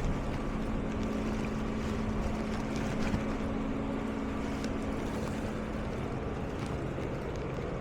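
Motor engine running at a steady speed, with a steady rushing noise over it.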